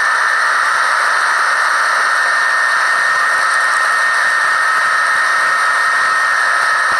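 Steady, loud cab noise of a 1978 Ford F75 pickup's four-cylinder engine and drivetrain at highway cruising speed, blended with a hiss of wind and road noise. A thin, high whine holds steady through it.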